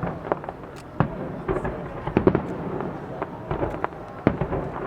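Fireworks display: aerial shells bursting in an irregular string of sharp bangs and pops, over a constant crackle and rumble, with the loudest reports about a second apart.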